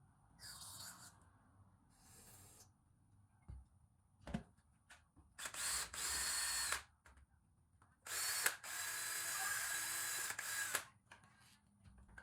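Power drill spinning a small brush inside the engine block's bolt holes to clean them out. It runs in two spells with a steady whine, a short one about halfway through and a longer one a couple of seconds later, after a few short hisses and clicks.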